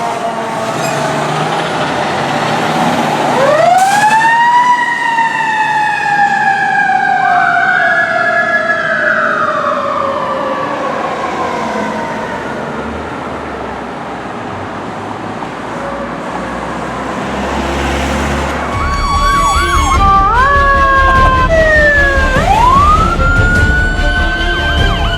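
Fire truck sirens wailing on a code 3 response: a wail rises about three seconds in and winds down slowly over several seconds, overlapping other siren tones. Near the end the tones switch to quick rising and falling yelps, over a deep engine rumble.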